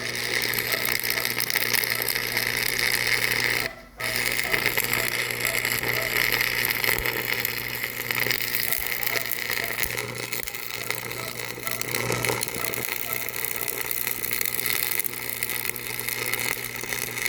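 Steady mechanical running noise from a machine, with a constant hum under it; it drops out briefly about four seconds in.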